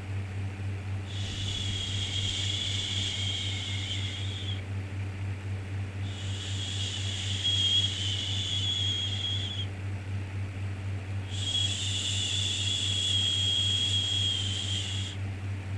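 Rhythmic shushing 'shhh' sound for soothing a baby: three long shushes of about three and a half seconds each, separated by short pauses, over a steady low hum.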